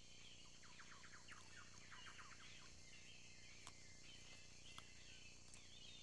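Faint bird chirps: a quick series of short falling notes in the first half, then a few scattered ones, over steady tape hiss and low hum.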